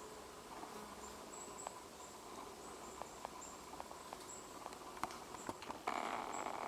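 Great spotted woodpecker pecking at a konara oak branch: scattered, irregular light taps over faint high chirping. Near the end a loud steady buzzing sets in suddenly.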